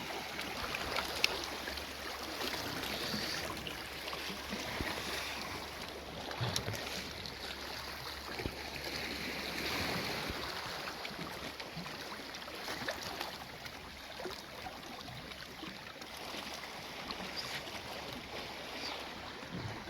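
Shallow sea water washing and lapping over reef rocks: a steady wash, broken now and then by small faint clicks.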